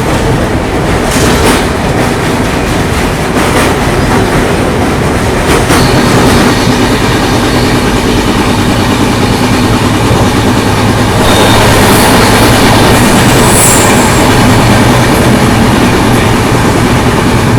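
Express train running at speed over a long river bridge, its wheels rumbling and clattering on the rails, with a brief high wheel squeal about two-thirds of the way through.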